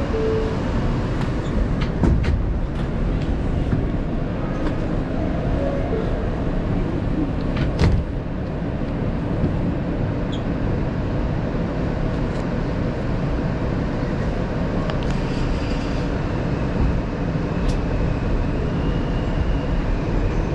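New York City subway E train running between stations, heard from inside the car: a steady, loud rumble of wheels and car body on the track, with a couple of sharp knocks about two and eight seconds in.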